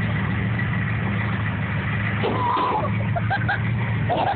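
A truck engine running at a steady pitch, with people shouting from about halfway through.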